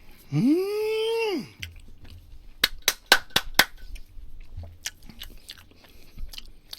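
A person eating a crisp radish wrap of barbecued pork belly and duck. It opens with a short hummed vocal sound lasting about a second, then comes a quick run of sharp crunchy chewing clicks, then softer chewing.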